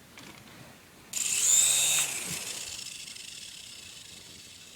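Electric motors of a small toy RC helicopter spinning up suddenly with a high-pitched rising whine about a second in, then winding down and fading over the next couple of seconds.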